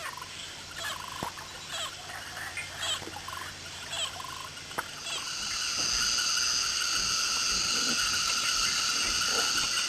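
Rainforest wildlife chorus: short repeated chirping calls at first, then about halfway through a louder, steady, shrill multi-toned drone of calling animals sets in and holds.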